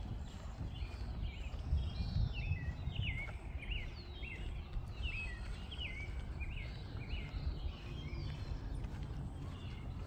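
Small songbirds chirping, a run of short quick notes repeated again and again, over a low, uneven rumble of footsteps.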